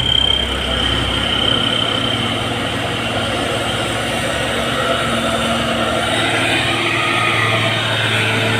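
Heavy truck engines running steadily as traffic passes on the road, with a thin high whine in the first couple of seconds.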